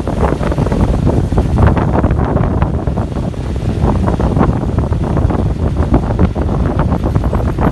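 Wind buffeting the microphone on a moving bus, gusty and loud, over a low rumble of the bus running along the road.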